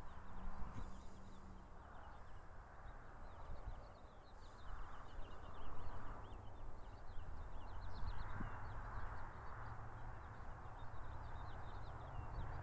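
Small birds chirping and twittering in quick, dense runs throughout, over a low rumble.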